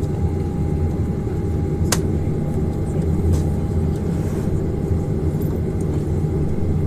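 Boeing 737-800 on the ground, heard inside the cabin: a steady low rumble with a faint steady whine, and a single sharp click about two seconds in.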